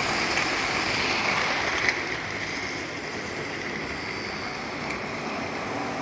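Model trains running on the layout's track: a steady whir of the locomotive motors with wheels running over the rails, and a single small click about two seconds in.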